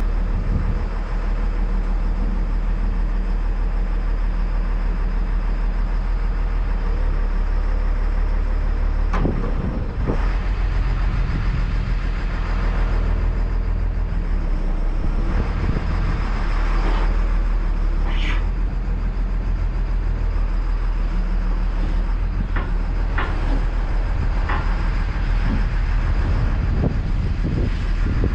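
Caterpillar 325 excavator's diesel engine running steadily, with a few short, sharper sounds about nine, eighteen and twenty-three seconds in.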